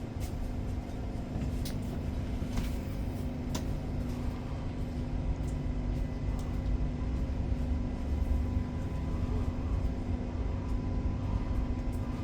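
Interior of an electric passenger train: a steady low rumble with a constant hum, and a few light clicks in the first few seconds.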